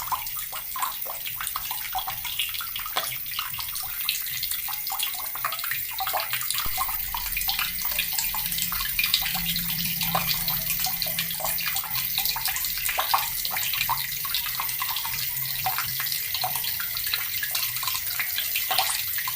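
Water running steadily from a tap and splashing as it lands, a continuous hiss full of small splashes.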